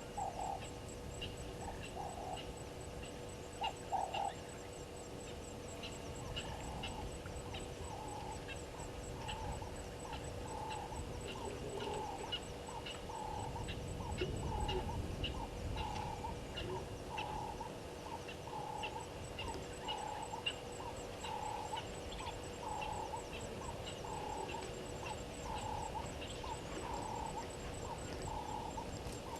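Wild animal calls: one short, low call repeated evenly about every 0.7 seconds over a faint, fast, high ticking and a steady hum.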